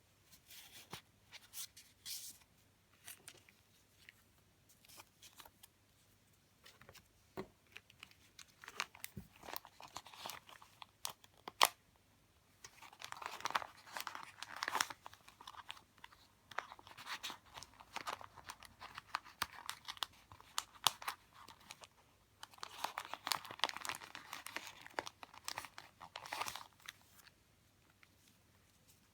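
Paper and plastic stationery handled up close: crinkling and rustling, with scattered small clicks and taps, thickening into two longer stretches of crinkling past the middle and again near the end.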